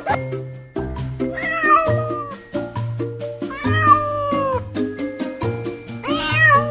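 Domestic cat meowing three times, each call about a second long, the middle one sliding down in pitch, over background music with a steady beat.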